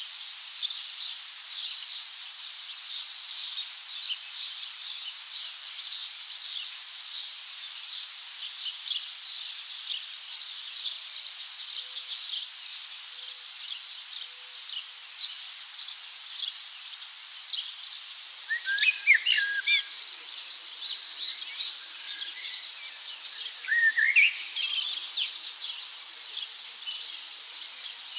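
A chorus of many birds chirping, dense short high-pitched calls throughout, joined about two-thirds of the way in by lower swooping whistles.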